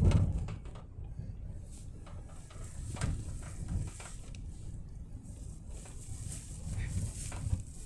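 Steady low road rumble inside a moving vehicle's cabin, with a thump right at the start and a few light knocks and rattles.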